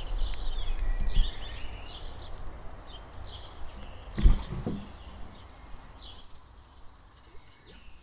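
Small birds chirping repeatedly in short high calls over a low rumble that fades away. A single thump comes a little past halfway.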